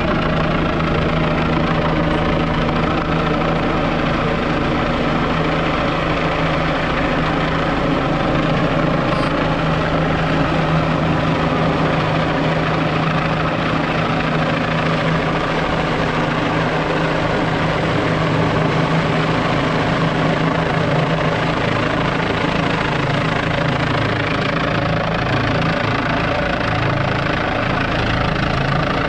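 Rescue helicopter hovering while its hoist cable is lowered, its rotor and engine running with a steady, unbroken drone.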